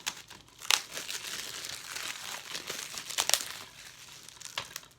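Plastic shrink-wrap being torn and peeled off a DVD case: continuous crinkling with a few sharp snaps, the loudest a little over three seconds in.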